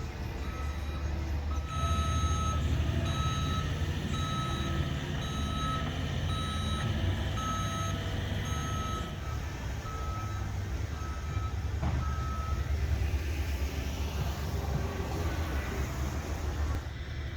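A construction vehicle's reversing alarm beeping steadily, about one and a half beeps a second, over the low rumble of a diesel engine; the beeping stops about three-quarters of the way through while the engine keeps running.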